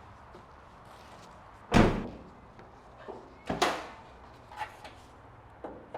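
Car door shutting with a loud thud about two seconds in, followed by a second solid thud and a few lighter knocks and clunks of the car body.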